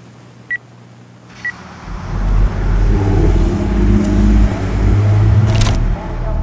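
Two short high beeps about a second apart, then a car engine's rumble builds and runs loud and revving. A sharp crackle comes near the end.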